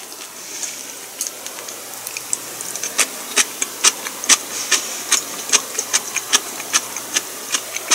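A person chewing food, the mouth making a run of sharp smacking clicks, a few a second, which grow louder about a second and a half in.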